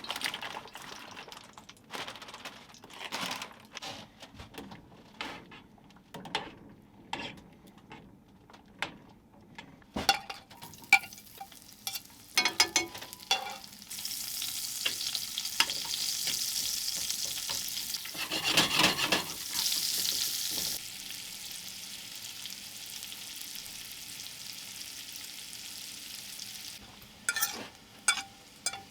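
Food frying in a pan, with scattered clicks and knocks of utensils and cookware at first. About halfway through, a steady sizzle starts suddenly and swells briefly. A few seconds later it drops to a quieter, even sizzle, and more utensil clicks come near the end.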